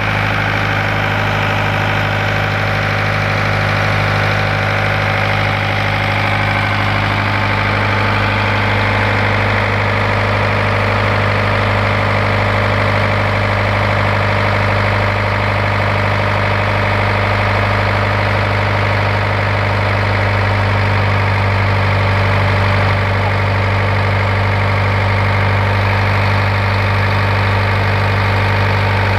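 Tata 407 engine running steadily at constant speed during an engine test at about 80% load, with a strong low hum that holds at one pitch throughout.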